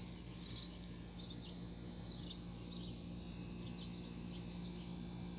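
A bird chirping over and over, short high notes about once a second, over a steady low hum.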